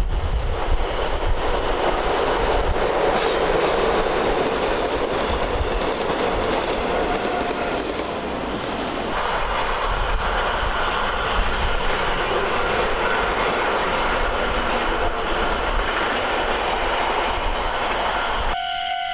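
Train running past, a loud steady rumble and rush of wheels on the rails. Near the end it gives way abruptly to a quieter sound with a steady high tone.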